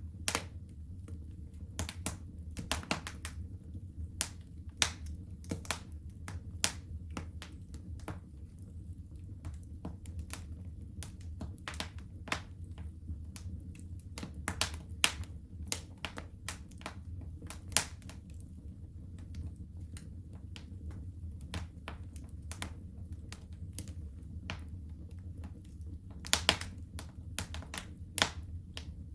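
Wood fire crackling in a fireplace: irregular sharp pops and snaps over a steady low rumble. The snaps come thickest in the first half and in a brief cluster near the end.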